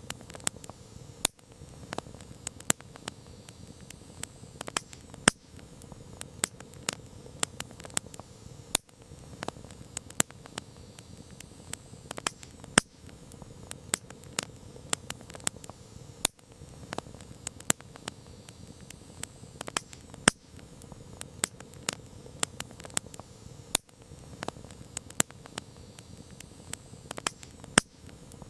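Wood campfire crackling: irregular sharp pops and snaps, several a second, over a soft low hiss of burning.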